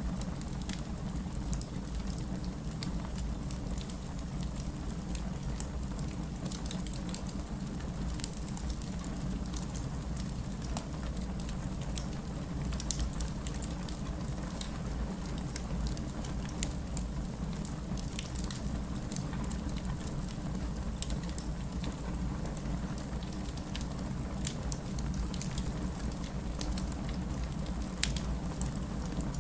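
Wood fire burning with a steady low rumble and frequent sharp crackles and pops from the logs, scattered irregularly.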